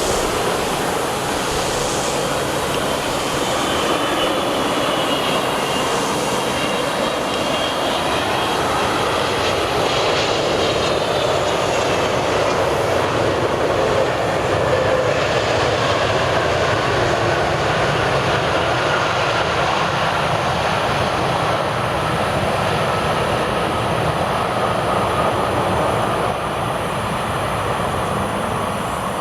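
Jet engines of a landing Airbus A330-300 airliner, a loud steady rush with thin whines that slowly fall in pitch, easing off slightly near the end.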